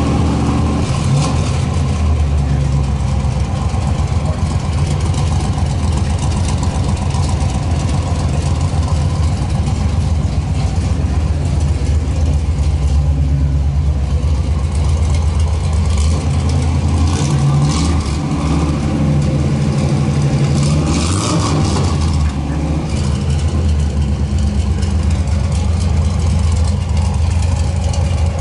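1955 Chevy gasser's engine idling steadily through its side-exit exhaust, with one brief rise in revs about three-quarters of the way through.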